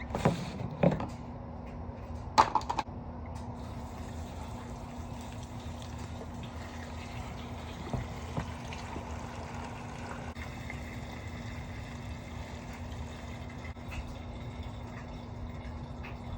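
Gasoline pouring from a gas can into a riding mower's plastic fuel tank: a few knocks and clicks as the can is handled in the first three seconds, then a steady pour as the tank fills.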